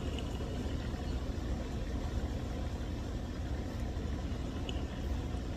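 Steady low rumble, like an idling engine or other machinery running in the background, with no other distinct event.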